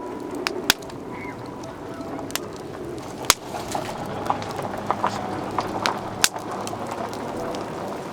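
Wood campfire crackling: a steady low hiss of burning with sharp, irregular pops and snaps from the burning wood.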